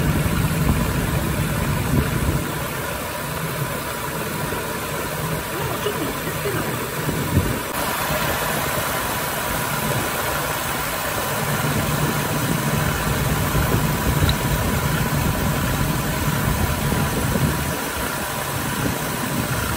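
1977 Toyota Crown's carburetted engine idling steadily while its idle adjust screw is turned clockwise to bring down an idle speed that is too high, after the carburettor was cleaned with foam cleaner.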